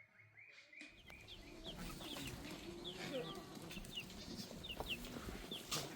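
Chickens clucking, with many short high chirps over a steady outdoor hiss. The sound starts abruptly about a second in; before that there is only a faint steady high tone.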